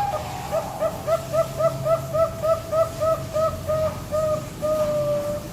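Young Bangkok-type zebra dove (perkutut), about four months old, singing its cooing song: an opening note, then a quick run of short coos about three or four a second, ending in one long drawn-out coo.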